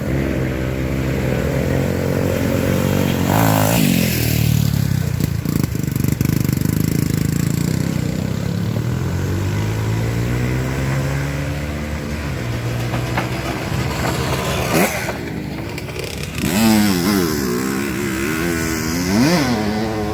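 Off-road trail motorcycle engines running and revving, the pitch rising and falling over and over, with quick sharp revs in the last few seconds.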